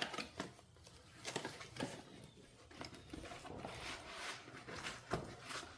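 Packaging being handled and opened to unbox a fog light: scattered light knocks, clicks and rustles.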